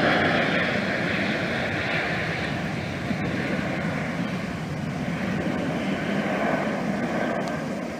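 Fixed-wing airplane's engines running as it passes, loudest at the start and slowly fading away.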